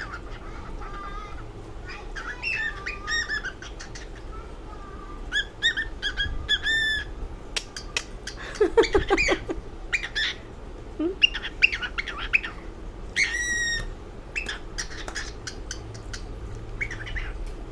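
Cockatiel vocalising in a run of short chirps, whistles and squawks, coming in quick bouts with brief pauses between them.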